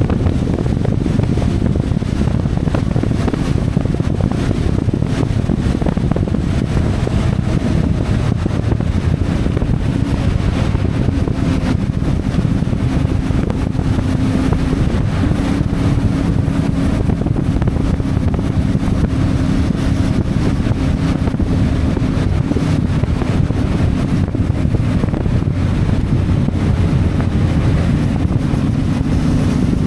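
CFMoto 450MT parallel-twin motorcycle engine running steadily under way, its note stepping slightly higher about halfway through, with wind buffeting the microphone.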